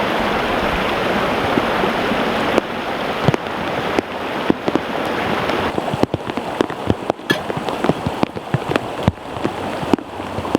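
Stream water rushing steadily, then from about two and a half seconds in, rain falling with many sharp separate drop ticks close by as the rush grows fainter.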